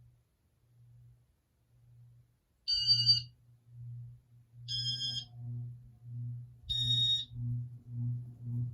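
Three short electronic beeps about two seconds apart from a Casablanca Panama ceiling fan's Inteli-Touch control, over a low motor hum. The hum pulses about twice a second and grows louder after the first beep.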